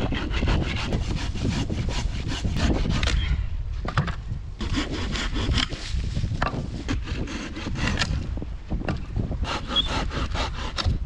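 Hand saw cutting through firewood in fast, even back-and-forth strokes, pausing briefly twice.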